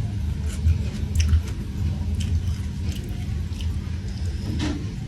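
Close-up chewing of fried fish: soft wet mouth clicks and lip smacks at irregular intervals, over a steady low hum.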